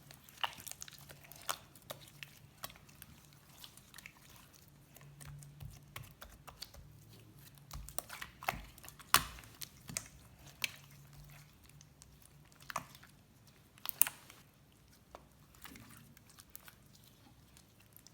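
Slime being squeezed and poked by hand, giving irregular sticky clicks and crackles, the loudest about nine and fourteen seconds in.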